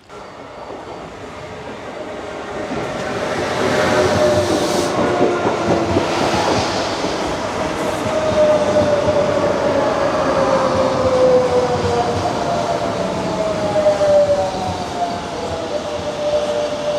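Passenger train pulling into the station. It grows louder over the first few seconds, with a whine that falls slowly in pitch as the train slows.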